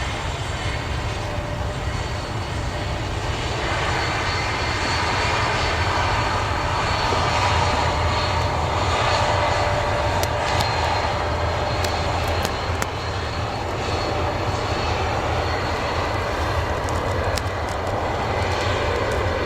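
Airliner engines running steadily, swelling a little in the middle, with a faint steady whine over the roar.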